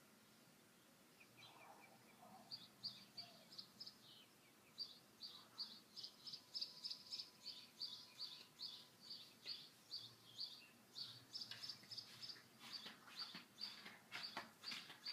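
Faint bird chirping outdoors: a run of short high notes repeated about two or three times a second, with a few soft clicks near the end.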